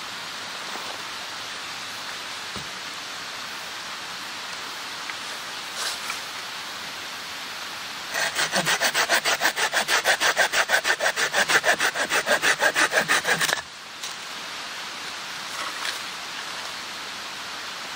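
Hand saw cutting through wood in quick, even strokes, about five a second, starting about eight seconds in and stopping suddenly some five seconds later. A steady rushing noise lies underneath.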